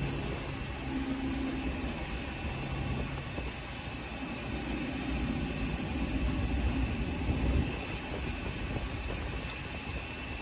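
Car running on the move, engine and road noise heard from inside the cabin as a steady low rumble and hum.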